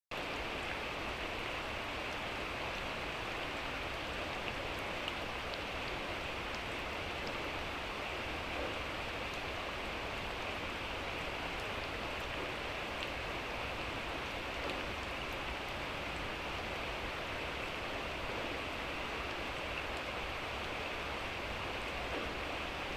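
Steady light rain falling: an even hiss with a few faint drip ticks.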